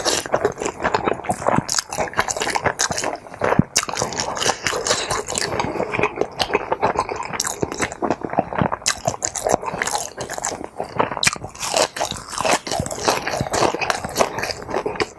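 A person chewing and biting food close to the microphone: a dense, irregular run of wet mouth clicks and soft crunches.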